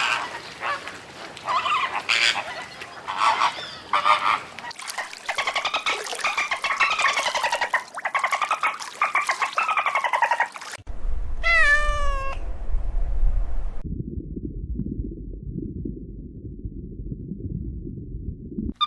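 Cats meowing over and over for about the first ten seconds, then a short run of quick, high calls, then a steady low rumbling noise.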